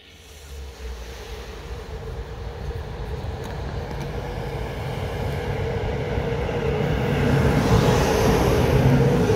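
A CFR 060-EA electric locomotive hauling a passenger train into the station. It grows steadily louder as it approaches and passes close by, with a steady hum over the rumble of wheels on the rails, and is loudest near the end.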